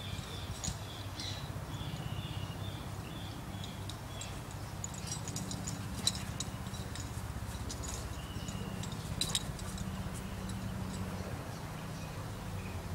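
Outdoor ambience with a small bird chirping, a quick run of short high chirps in the first few seconds and one more later. There is a steady low hum underneath, and scattered light clicks and ticks in the middle.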